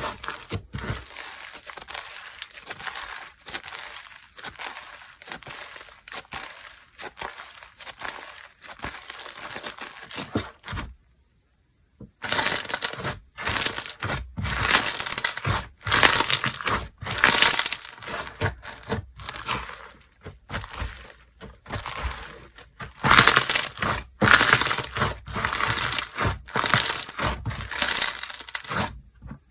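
Hands pressing, squishing and stretching slime, making irregular crackly, squelching bursts. It stops dead for about a second near the middle, then goes on.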